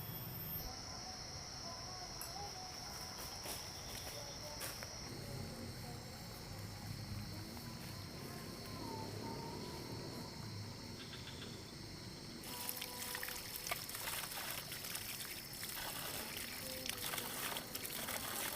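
Forest ambience with insects chirping steadily. About two-thirds through, a dense pattering of many small clicks starts and keeps going.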